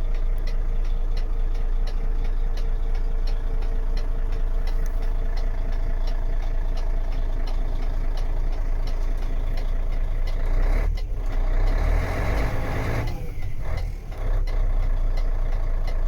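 Mercedes-Benz Actros 2536 truck's diesel engine idling steadily, with faint regular ticking. About eleven seconds in, a burst of compressed-air hiss lasts roughly two seconds, then cuts off.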